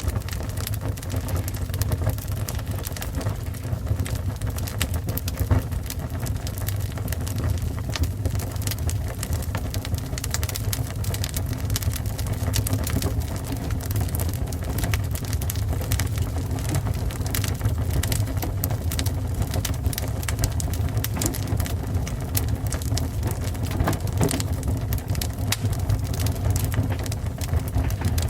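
Fire burning steadily: a constant low rush of flame with many small, irregular crackles and pops.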